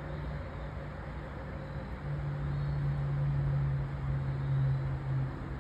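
A low, steady engine hum over a background rush of outdoor noise. It grows louder about two seconds in and eases near the end, like a vehicle going by.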